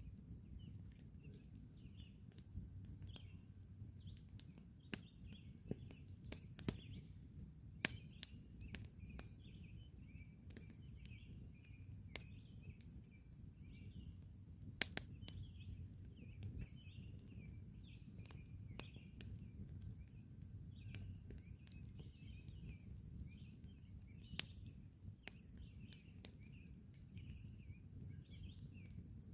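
Wood campfire crackling, with irregular sharp pops every second or so and the loudest one about halfway through, over a low steady rumble. Birds chirp continually in the background.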